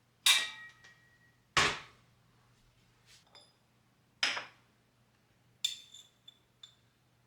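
Kitchenware being handled and set down: four separate knocks, most with a short metallic or ceramic ring, one a duller thud, and a few light clicks near the end.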